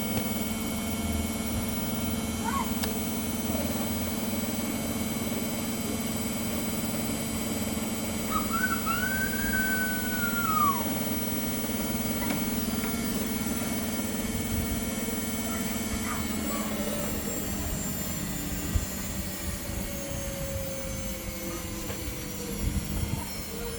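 Samsung ecobubble washing machine on its spin cycle: the drum motor runs with a steady whine and hum, and its pitch starts falling gradually about two-thirds of the way through as the spin slows. A brief rising-then-falling whistle-like sound cuts in about nine seconds in.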